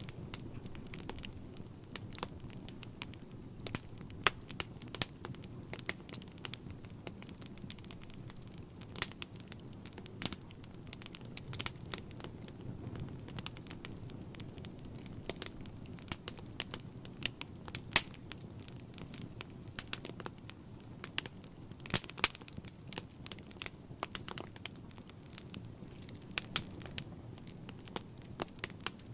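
Wood fire burning in a fireplace: a low steady rumble of flames with irregular crackles and sharp pops of burning logs, a few pops louder than the rest.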